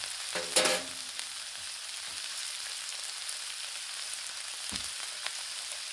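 Smoked sausage and chopped onion, pepper and celery sizzling steadily on a hot Blackstone flat-top griddle. A short clink sounds about half a second in.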